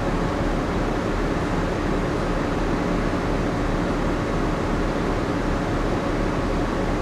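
Steady hum and rushing of a ship's onboard machinery and ventilation, even and unbroken, with a low drone underneath.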